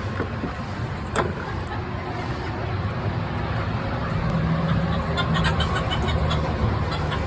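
Chickens clucking in a quick run of short notes from about five seconds in, over a steady low rumble.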